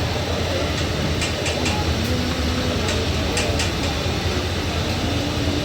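Busy street-food stall ambience: a steady low rumble with faint background voices, and two quick runs of short sharp clicks, one about a second in and one about three seconds in.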